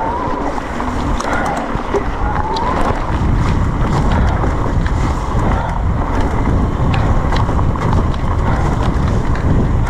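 Wind buffeting the microphone over the steady rumble of an electric mountain bike's tyres on a wet, muddy trail, with frequent clicks and rattles from the bike as it rides over rough ground.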